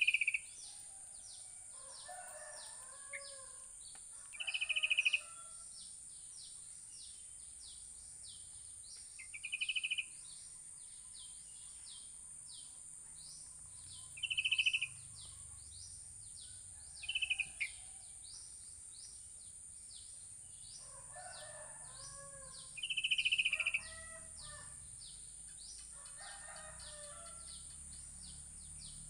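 Sooty-headed bulbuls (kutilang) calling: loud short calls every few seconds, with softer bubbling, warbled phrases in between. Under them runs a steady high-pitched insect drone with fast, even ticking.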